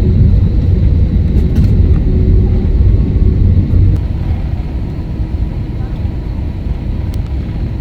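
Steady low drone of an Airbus A321's jet engines and airframe heard inside the passenger cabin while the aircraft is on the ground before takeoff. It gets noticeably quieter about four seconds in.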